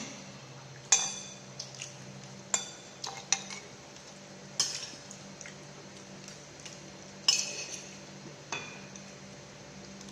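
Tableware clinking at a meal: scattered sharp clinks of utensils against bowls and dishes, each ringing briefly. A low steady hum runs underneath.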